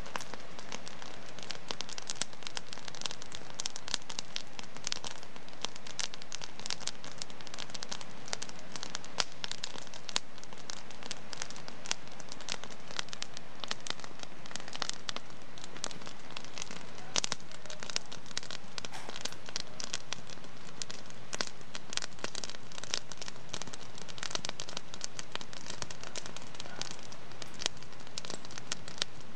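Wood fire burning in a fireplace, crackling steadily with dense, irregular pops and snaps over a soft hiss.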